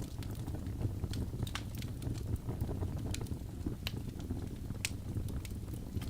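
Birch logs burning in a fireplace: a steady low rumble of flame with irregular sharp crackles and pops, several a second.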